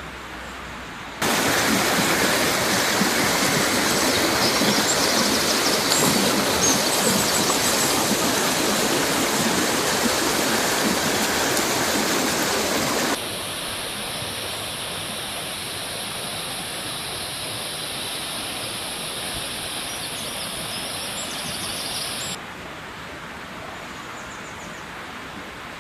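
Mountain river rushing over rocks, a steady water rush. It jumps up sharply about a second in, drops suddenly to a quieter rush near the middle, and drops again to a fainter ambience near the end.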